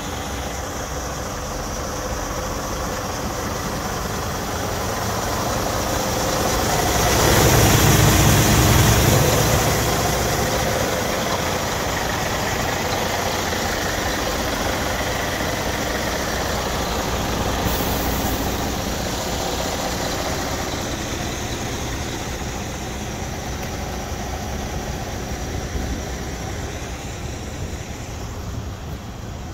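Scania R440 truck's 13-litre straight-six diesel engine idling steadily. It grows louder for a few seconds about seven seconds in, then settles back to a steady idle.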